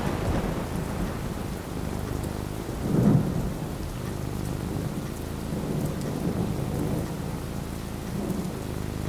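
Steady rain falling, with thunder rumbling over it: a rumble at the very start, a louder low rumble about three seconds in, and weaker rolls of thunder later.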